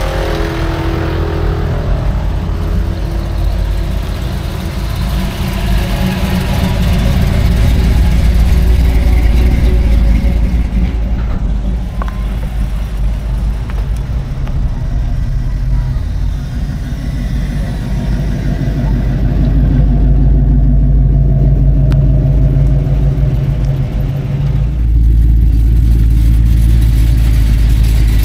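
Classic and muscle car engines running as cars drive off one after another, a deep low engine note that swells and fades as each one passes. About three-quarters of the way through, a louder engine takes over.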